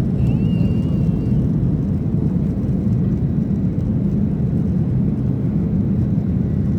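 Cabin noise of a Boeing 737-800 with its CFM56-7B engines under power: a steady low rumble of engines and airflow, heard from inside the cabin. A faint thin whistle wavers briefly near the start.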